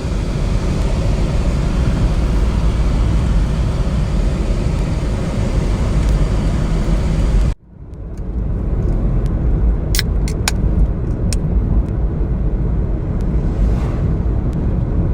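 Steady road and engine rumble inside a moving car. It cuts off abruptly about halfway through and comes back, followed by a few sharp clicks.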